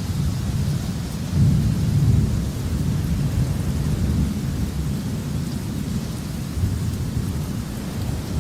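Thunderstorm: a deep rolling rumble of thunder that swells loudest about a second and a half in and then rolls on, over steady rain.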